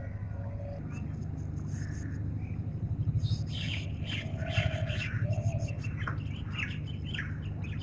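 Birds chirping and calling, a cluster of short calls in the middle and later part, over a steady low pulsing hum.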